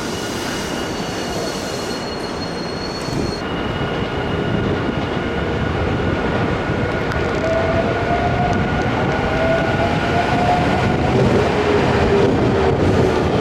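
Nankai electric train moving at the station platform: wheel and running noise grows louder, and a motor whine rises in pitch about halfway through. A steady high tone cuts off about three seconds in.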